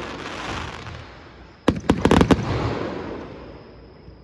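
Fireworks bursting overhead: a fading crackle, then a quick cluster of sharp bangs about a second and a half in, trailing off into a crackling rumble.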